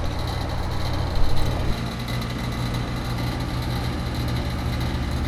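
Steady low machine hum, like an idling engine or running motor, whose pitch pattern shifts a little under two seconds in, with a few light knocks just after the first second.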